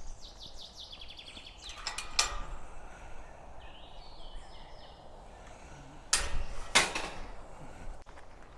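Small songbird singing outdoors, a quick falling trill near the start and fainter calls later. A few loud, brief scraping rustles break in, about two seconds in and twice around six to seven seconds in.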